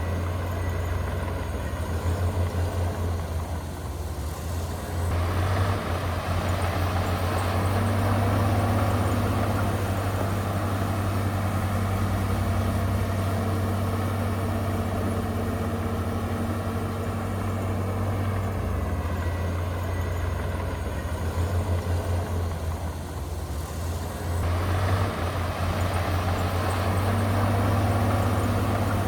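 Heavy diesel engine of a bulldozer working, a steady low drone. The engine note swells under load about five seconds in and again near the end, with brief lulls just before each.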